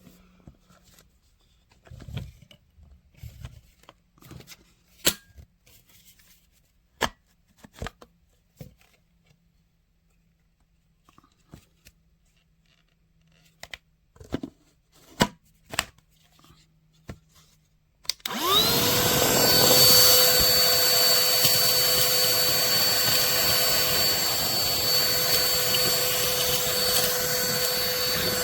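Scattered clicks and knocks of handling, then, about two-thirds of the way through, a SIMWAL cordless handheld vacuum cleaner switches on. Its motor whine rises quickly to a steady pitch and keeps running.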